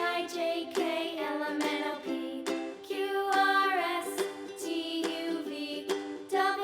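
Background music: a children's song with ukulele strumming and a sung melody.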